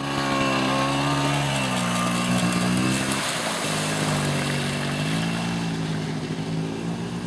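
Small 50cc engine of a kids' dirt bike or four-wheeler running at low, steady throttle, its pitch easing off about three seconds in and then picking up again.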